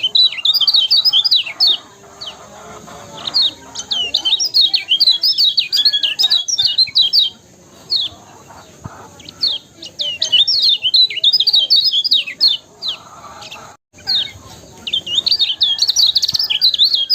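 Kecial kuning songbird singing in bouts of rapid, high twittering chirps, several runs of a few seconds each separated by short pauses.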